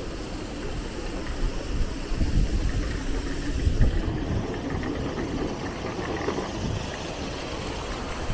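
Low rumbling street noise of city traffic, with wind buffeting the microphone, strongest about two to four seconds in.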